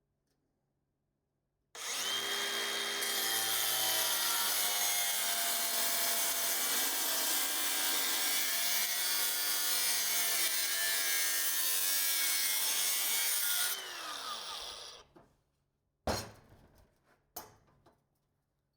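Angle grinder with a 4-inch cut-off disc starting up about two seconds in and cutting metal steadily for about twelve seconds, then spinning down. A couple of sharp metal knocks follow near the end.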